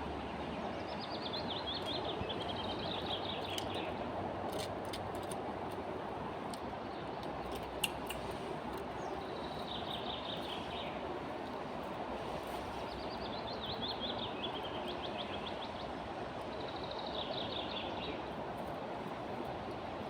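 A songbird singing four times, each song a quick trill of repeated notes falling in pitch and lasting two to three seconds, over steady background noise. A single sharp click comes about eight seconds in.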